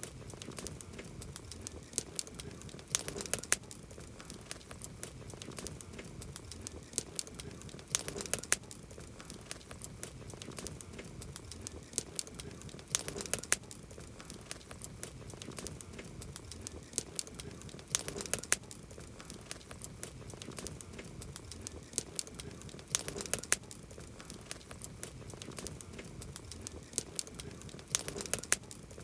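Wood campfire crackling, with many sharp pops and snaps over a soft hiss. Denser clusters of louder pops come about every five seconds.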